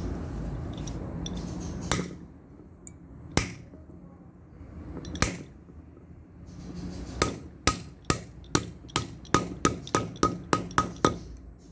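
Hammer striking an old bearing used as a driver, knocking a new wheel bearing into a motorcycle's rear wheel hub, metal on metal. Three spaced blows come first, then a quick run of about a dozen ringing strikes, roughly three a second.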